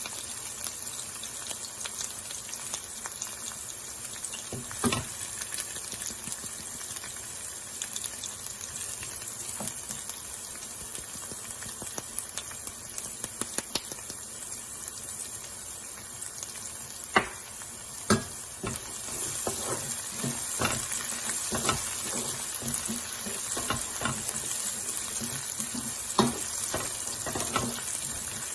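Oil sizzling steadily in a pan with onions, garlic, ginger and herbs frying in it. A utensil knocks and scrapes against the pan now and then, more often in the second half.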